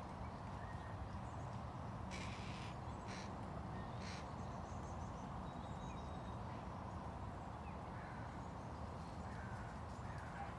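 Steady low outdoor background noise, with three short bird calls about two, three and four seconds in.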